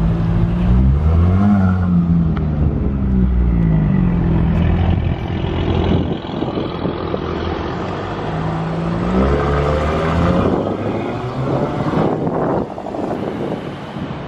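Car engine revving, its pitch climbing and dropping back several times, then rising and falling once more about nine seconds in.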